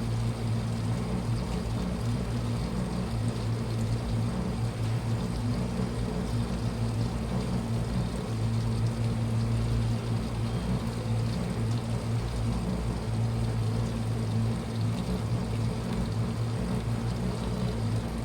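Washing machine running: a steady low motor hum with a swishing, watery noise over it.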